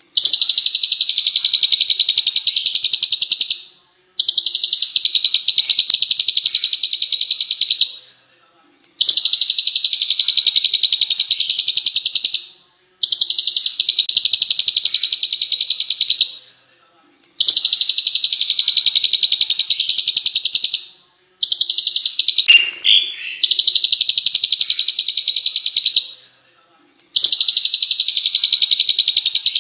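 Songbird masteran track: a loud, rapid, sharp trill (the 'tembakan' type of song) repeated in bursts of about three and a half seconds with short gaps, about seven times, with loop-like regularity. About three quarters of the way through, a different short gliding call cuts in.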